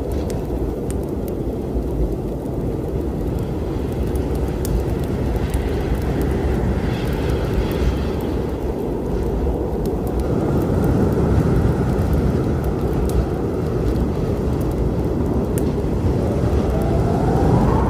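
Steady low rumble of a storm, with sharp pops and crackles from a wood fire scattered through it. A faint whistling tone rises and falls near the end.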